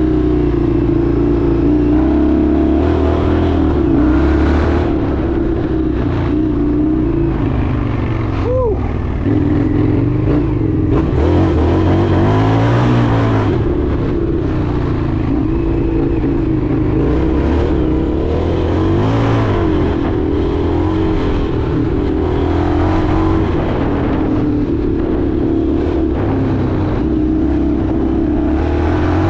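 Indian FTR 1200 V-twin engine running under way, its pitch rising and falling every few seconds as the throttle opens and closes, with a steady rush of riding noise.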